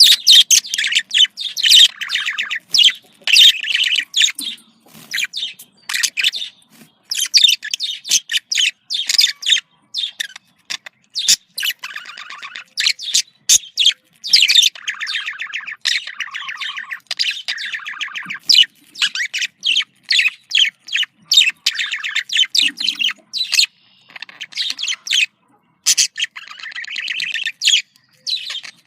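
Budgerigars chattering and chirping: rapid warbling strings of short notes broken by sharp single chirps, the calls budgie keepers play to bring birds into breeding condition.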